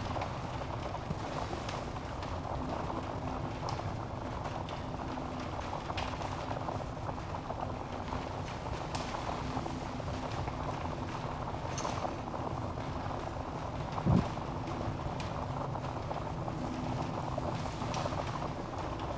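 Wood fire burning in a fireplace: a steady low rush of flames with scattered sharp crackles of burning logs, and one much louder pop about two-thirds of the way through.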